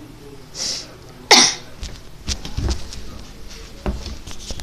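A short breathy puff, then one sharp, loud cough-like burst, followed by a few soft knocks and thuds.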